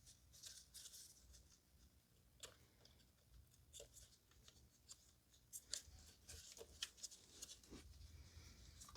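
Near silence with faint, scattered small clicks and rustles of plastic parts being handled, more of them in the second half: an ignition coil and its wiring connector being fitted onto the engine.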